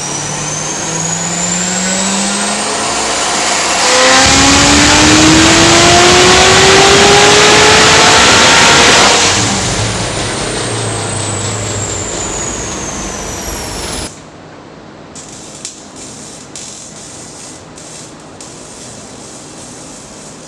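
A high-horsepower V8 car on a chassis dyno makes a full-throttle pull. The engine note climbs steadily in one long sweep and is loudest from about 4 to 9 s, with a high whine rising alongside it. Then the throttle is released and the revs fall away, and about 14 s in the sound drops to a low steady hum as the rollers spin down.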